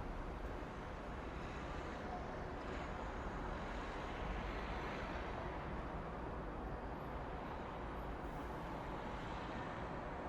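Steady city ambience: a low, even rumble of distant traffic.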